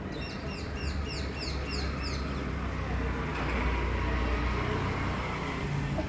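A bird giving a quick run of high, falling chirps, about four a second for the first two seconds, over a steady low rumble.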